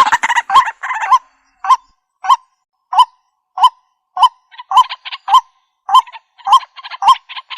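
Waterhen calling: a string of loud, harsh, hooked croaks repeated about every 0.6 seconds. They come densely in the first second, then singly for a few seconds, then faster again with extra clicking notes.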